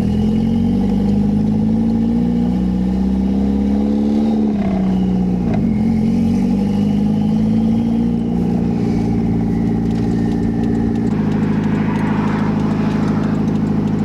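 Toyota MR2's 3S-GTE turbocharged four-cylinder with an open downpipe, pretty loud, accelerating: the engine pitch climbs, drops at a gear change about four and a half seconds in, climbs again, then holds steady near the end.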